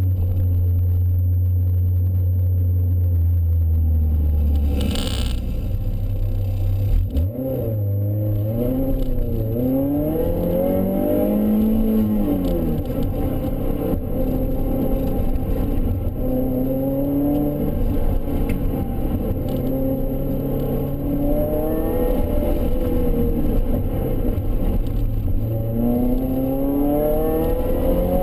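Supercharged Mazda MX-5's four-cylinder engine heard from inside the cabin under hard driving: held at steady revs at first, then rising and falling over and over through corners and gear changes. A brief knock about seven seconds in.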